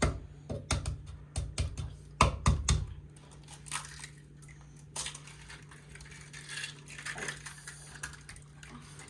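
Quick clicking taps of a fork against a bowl, in several short runs during the first three seconds, as eggs are beaten for crepe batter. Fainter scraping and rustling follow over a low steady hum.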